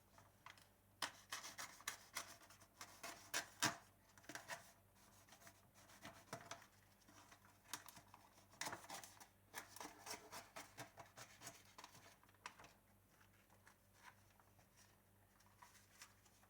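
A sharp tool scratching and picking at the heat-sealed plastic film on a chicken pack, and the film crinkling as it is pulled off. Irregular clicks and scrapes come thick in the first half, then thin out near the end.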